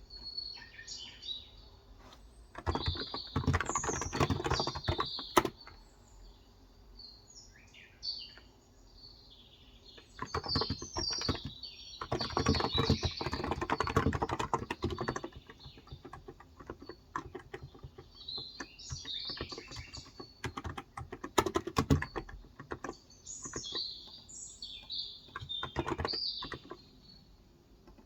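Typing on a Cox Endeavor electro-capacitive (non-contact, 35 g) tenkeyless keyboard, in two long bursts a few seconds in and around the middle, with a short burst later. Birds chirp high and intermittently throughout.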